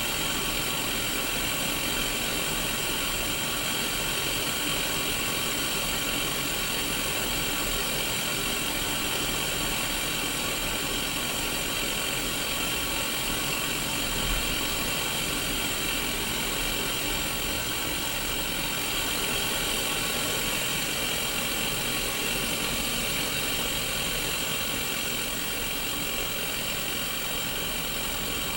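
Steady hiss of static from a Sony Mega Watchman mini black-and-white CRT TV tuned to no station, with faint steady tones running under the hiss.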